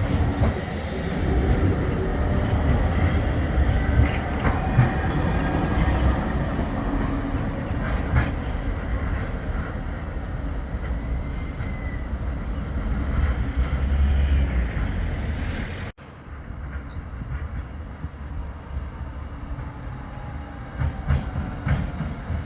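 Flexity 2 tram running on street track: a steady low rumble with a few sharp knocks from the wheels on the rails. About 16 s in the sound cuts off abruptly and a quieter stretch of traffic noise follows.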